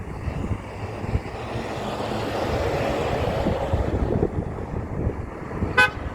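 A large truck driving past, its engine and road noise swelling to a peak two to three seconds in and then fading, with a very short horn toot near the end.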